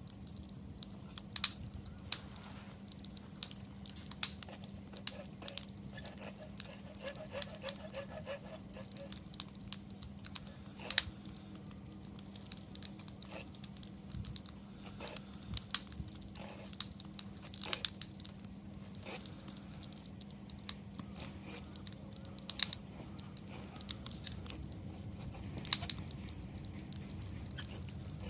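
Wood campfire crackling: irregular sharp pops and snaps, a few every second, over a faint steady low hum.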